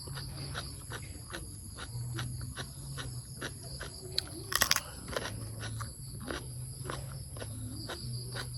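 A person chewing a mouthful of raw beef and liver koi close to the microphone, with repeated wet smacking clicks, a louder cluster about halfway through.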